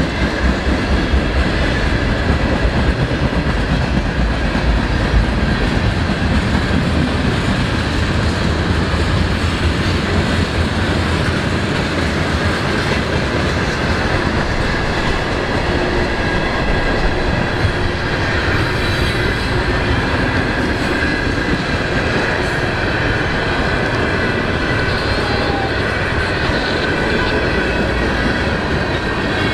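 A CSX freight train's cars rolling past, with steady wheel-on-rail noise and clatter and a faint, steady high wheel squeal running through it.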